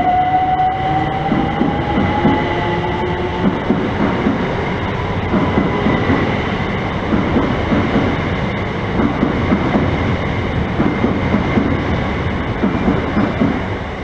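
Southeastern electric multiple-unit train running along the platform: wheels clatter over the rail joints in a quick, uneven rhythm, with a whine that rises in pitch over the first few seconds.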